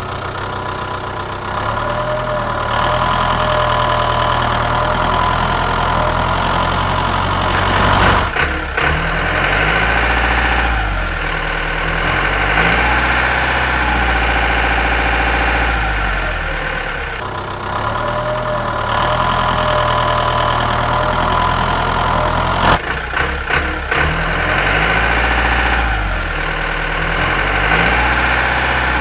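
A small engine runs steadily. Its sound rises and dips in a pattern that repeats about every 14 seconds, with brief breaks about 8 and 23 seconds in.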